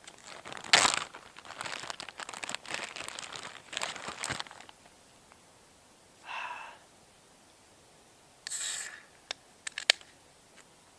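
A plastic Ziploc bag crinkles and rustles as a beer is taken out of it. After a pause a beer is cracked open with a short hiss, followed by a few small clicks.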